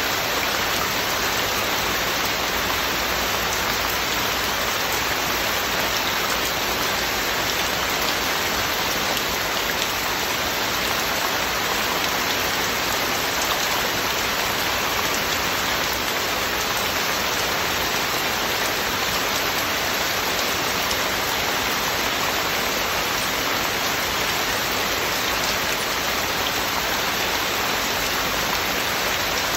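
Heavy rain falling steadily, an even, unbroken hiss of many drops with no thunder.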